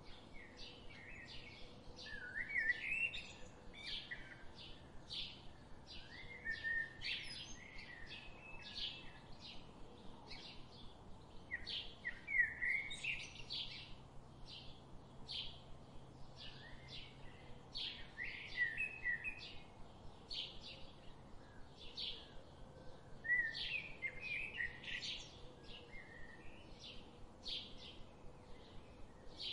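Forest birds calling: a steady series of short, high chirps about twice a second, with warbling, sliding phrases breaking in several times.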